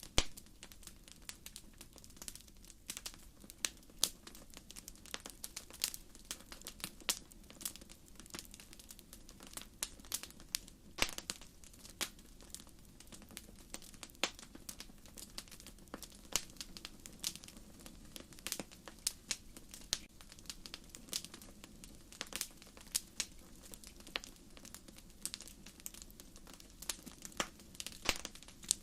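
Wood fire crackling: burning firewood gives frequent, irregular sharp pops and snaps over a steady low rustle of flame.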